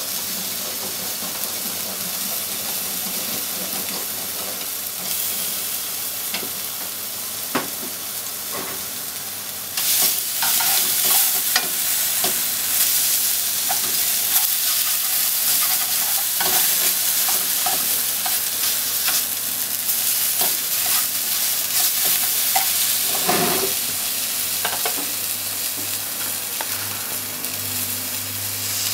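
Scallop mantles sizzling in oil in a nonstick frying pan, a steady hiss. About a third of the way in the sizzling grows louder as chopsticks stir the pieces, with small clicks of the chopsticks against the pan and one sharper knock later on.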